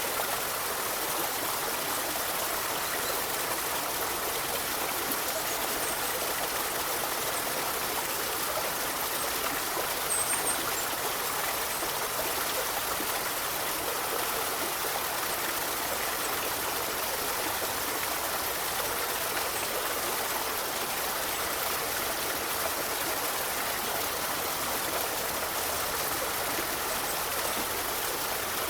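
Forest river flowing steadily: an even rush and babble of water over stones.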